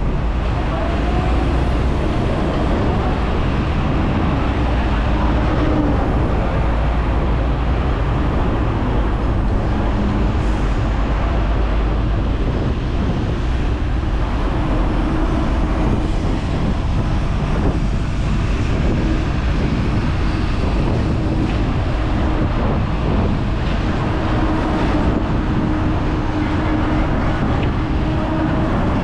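Hong Kong tram running along the street: a steady rumble of the car and its wheels on the rails, mixed with road traffic.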